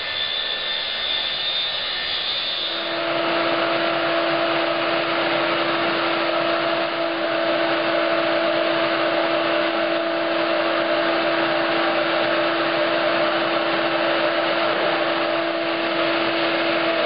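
Power saw running steadily, ripping half-inch sheathing into 4-inch strips. About three seconds in a steady hum sets in and it gets a little louder, then it holds.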